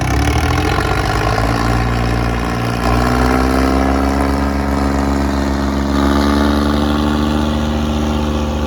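Diesel tractor engine revving up, its pitch rising over the first few seconds, then held at high revs with slight wavering, as it pulls hard in a tractor tug-of-war.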